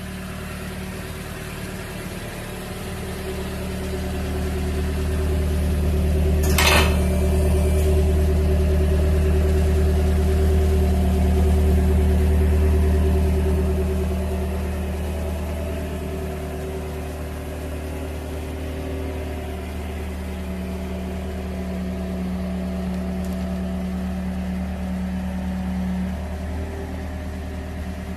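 Toyota Corolla Altis idling through an aftermarket single-canister rear muffler with four tips, a steady low drone at an even pitch that grows louder for several seconds and then eases back. A single sharp knock about seven seconds in.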